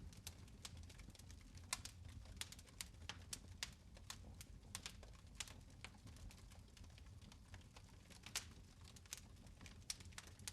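Quiet fire crackling in a fireplace: irregular sharp snaps and pops, several a second, over a soft low rumble of the flames.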